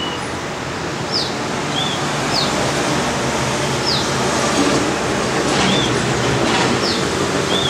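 Several short, high bird chirps, quick falling notes repeated every second or so, over a steady background noise.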